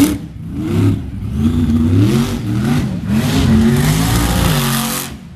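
Monster truck engine revving hard, its pitch climbing and falling again and again as the throttle is pumped while the driver fights to get the truck up on a car stack; near the end it drops to a steadier lower pitch.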